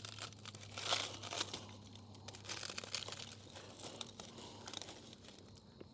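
Crinkling and tearing of paper or packaging in handling while fire-starting material is readied, in irregular rustling bursts, loudest about a second in.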